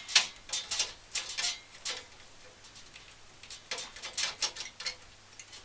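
Irregular small clicks and short scrapes of a hand tool working on parts inside a PC case, bunched in the first second and a half and again in the second half.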